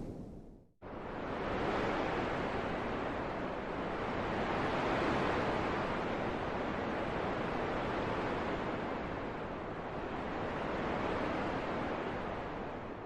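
Wind blowing: a steady rushing that swells and eases in slow gusts. It starts about a second in, after a deeper rumble fades out into a brief silence, and thins out near the end.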